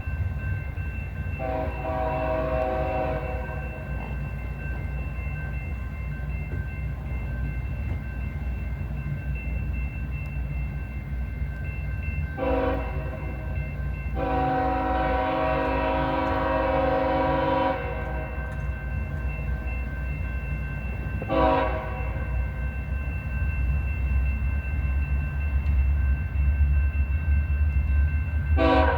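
CSX diesel freight locomotive sounding its multi-note air horn in a series of blasts: a long one, a short one, a longer one, then two short ones. Under the horn runs the steady low rumble of the train, growing louder near the end as it comes closer.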